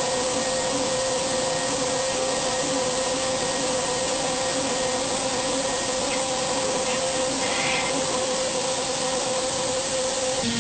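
A machine running steadily: a constant whine over a strong, even hiss, with the pitch stepping down slightly near the end.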